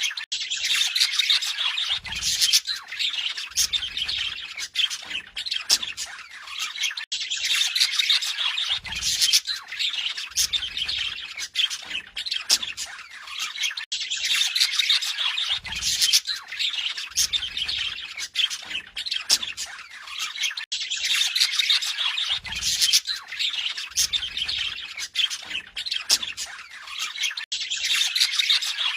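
Budgerigar warbling and chattering without pause, with many sharp chirps and squawks. The same stretch of song repeats about every seven seconds.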